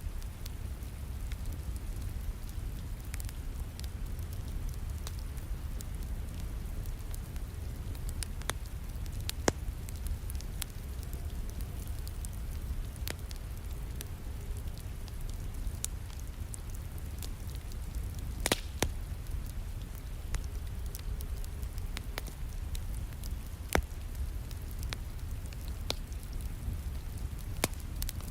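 Wood fire crackling and popping in a fireplace, with irregular sharp pops, the loudest about two-thirds of the way through, over a steady low rumble of rain falling.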